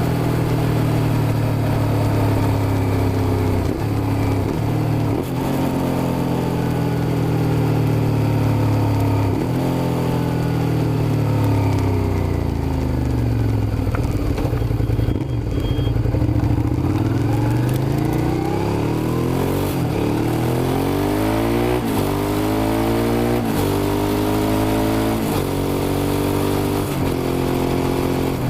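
Suzuki SV650's V-twin engine running under way, holding a steady pitch before the revs drop off as the bike slows. Then it accelerates hard again, revving up through several quick upshifts in a row.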